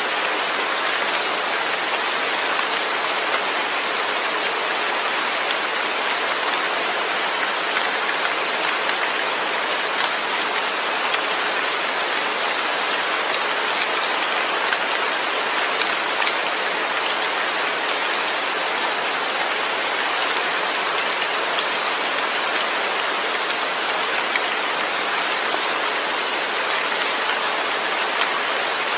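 Steady rain falling, an even hiss with scattered individual drops and no thunder.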